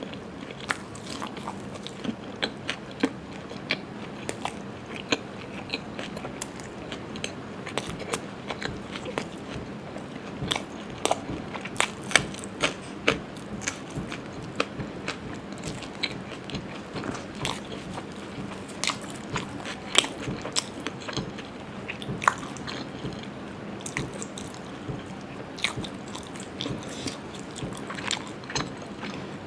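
Close-miked eating sounds: a person biting and chewing food, with many short, sharp mouth clicks and smacks at an uneven pace. A faint steady hum runs underneath.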